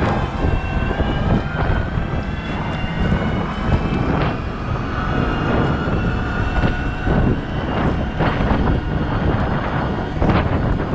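Cat 972M XE wheel loader working: the engine runs under load with a whine that rises in pitch and then holds steady, and sharp knocks and clatter come through now and then, loudest about four seconds in and near the end.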